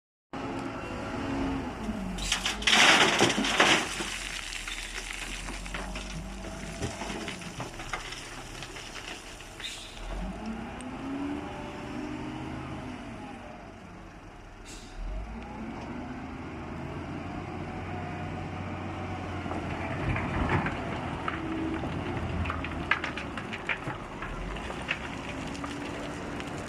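Loader's diesel engine working, its pitch rising and falling again and again as it revs under load. A loud noisy burst comes about three seconds in, and a few clanks near the end.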